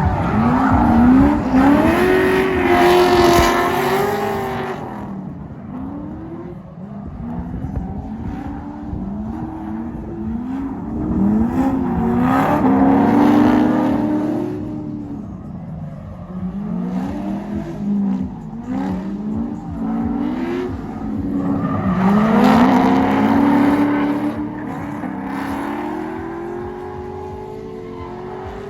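Drift cars sliding past one after another, engines revving up and down with tyres squealing. The sound swells to three loud passes about ten seconds apart.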